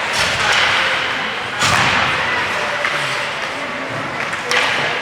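Ice hockey game sounds in an echoing rink: three sharp bangs, about a second and a half to three seconds apart, typical of the puck and players hitting the boards, over steady crowd noise.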